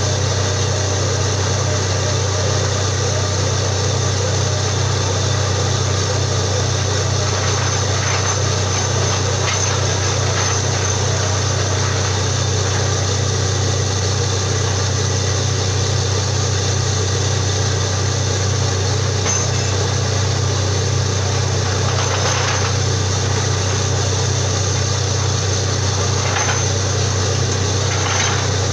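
Borewell drilling rig's engine running steadily at a constant speed, with a few faint knocks over it.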